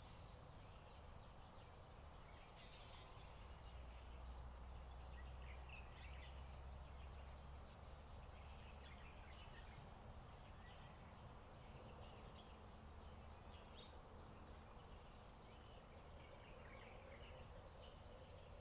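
Faint outdoor ambience: scattered small bird chirps over a low steady rumble, with a thin high pulsing trill through roughly the first half.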